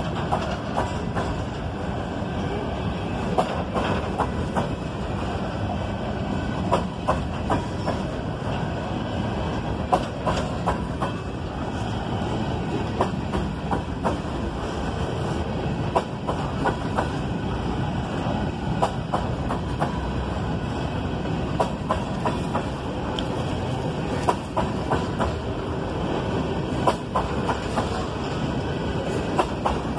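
Coal hopper cars of a long freight train rolling past with a steady rumble, their wheels clacking irregularly over rail joints.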